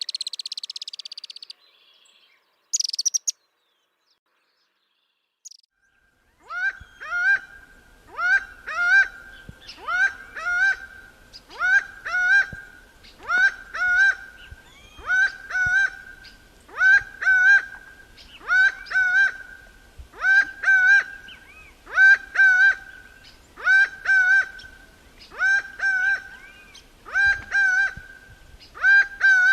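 A bird chirps briefly at the start. After a few seconds of silence, a bird calls over and over, a pitched call with a sharp rise at its start, repeated about once a second.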